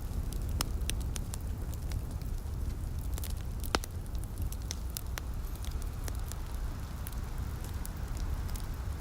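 Wood fire crackling, with frequent sharp pops and snaps and one louder pop a little before the middle, over a steady low rumble.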